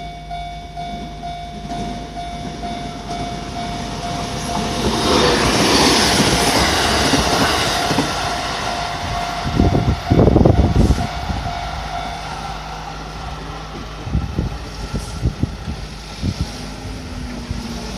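Level crossing warning bell ringing steadily as a 373 series electric train passes, the rush of the train swelling about five seconds in and fading over the next few seconds. The bell stops about twelve seconds in. There are loud low thumps around ten seconds in and a few more near the end.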